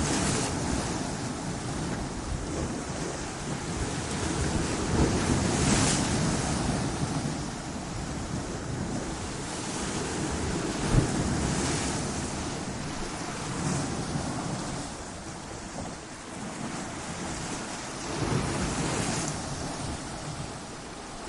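Ocean waves breaking against rocky coastline: a continuous rushing surf. Every several seconds it swells into a hissing crash, with one sharp splash about halfway through.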